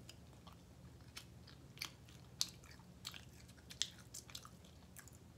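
Close-up mouth sounds of a person chewing a bite of fried chicken: a scatter of short wet clicks, with a few louder ones around the middle.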